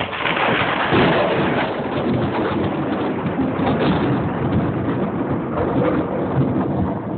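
A long rolling peal of thunder: it breaks in suddenly, rumbles with uneven swells for about seven seconds, and begins to fade near the end.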